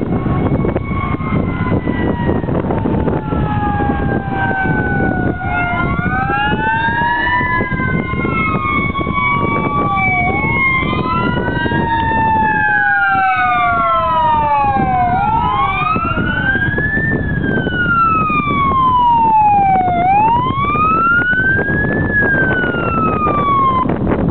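Fire engine sirens wailing, two or more overlapping, each rising and falling slowly over a few seconds. Under them runs a steady rumble of engine and road noise.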